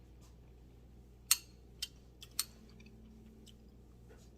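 A spoon clicking against a dish a few times while eating, one sharp click followed by a couple of lighter ones, over a faint steady room hum.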